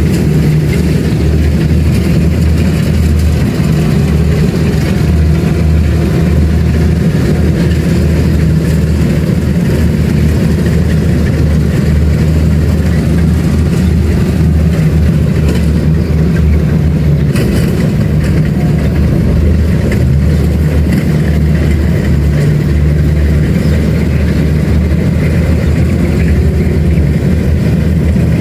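Kubota DC-70 Plus combine harvester's diesel engine running steadily with a deep, even drone while harvesting rice.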